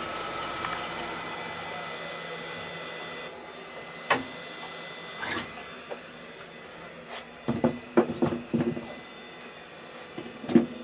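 A woodturning lathe runs with a steady hum and high whine that dies away over the first three seconds. Then come several separate knocks and clatters, the loudest a quick cluster about eight seconds in.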